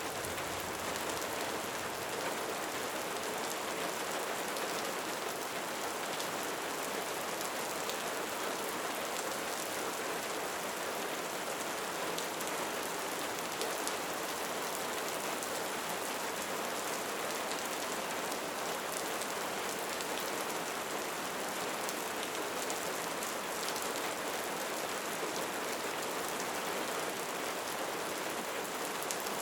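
Steady rain falling, an even, unbroken hiss of many drops with no change in strength.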